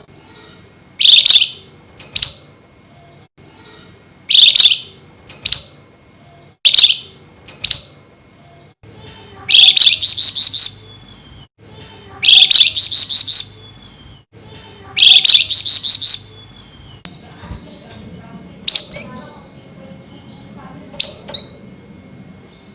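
Flamboyan songbird calling loudly in shrill, harsh 'nyerecet' notes: single sharp calls about a second apart, then three rapid chattering runs of several notes each around the middle, then two more single calls.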